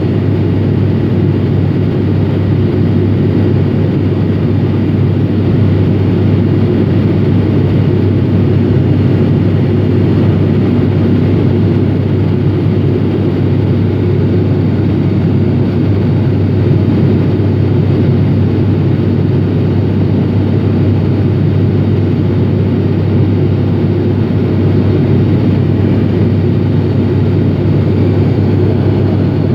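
Cabin noise of an ATR 72-500 twin turboprop in flight: the Pratt & Whitney PW127 engines and six-blade propellers make a steady, loud drone with a strong low hum.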